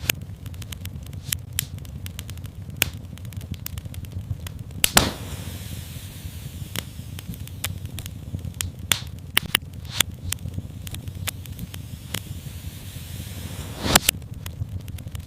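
Wood fire in a fireplace crackling, with frequent sharp pops over a steady low rumble. About five seconds in a loud pop sets off a steady hiss that runs until another loud pop near the end.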